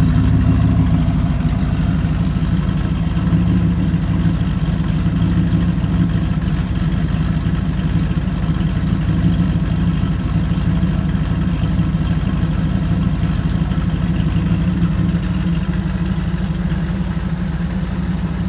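A 350 Chevy V8 with a new Erson camshaft (214/224 duration, 112 lobe separation) idling steadily in a 1986 Pontiac Trans Am, heard at the dual tailpipes as an even, deep exhaust pulse.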